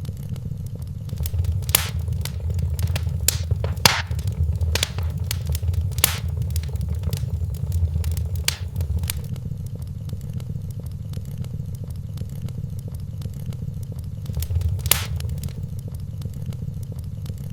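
Wood fire burning in a fireplace: a steady low rumble of flames with irregular crackles and pops, busier in the first half and with one sharp pop near the end.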